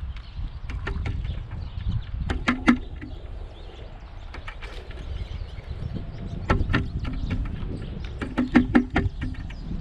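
Pileated woodpecker pecking at a suet feeder: sharp knocks in several short bursts, the busiest near the end.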